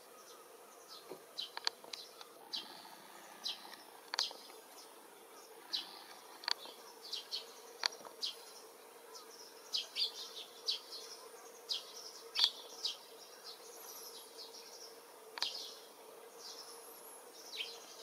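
Outdoor field ambience: a faint steady hum with many short, sharp high chirps or ticks scattered irregularly throughout.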